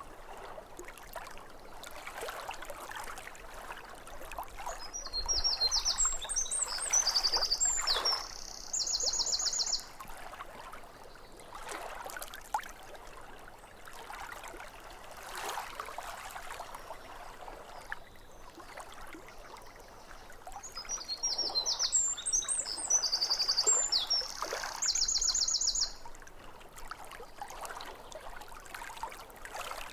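Small waves lapping at a lake shore in soft swells, with a songbird singing a phrase of chirps ending in a rapid high trill. The identical phrase comes twice, about 5 and 21 seconds in.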